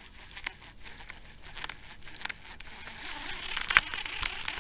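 Rain pattering: scattered sharp drop ticks over a soft hiss that grows louder in the second half, with one louder tick about three-quarters of the way through.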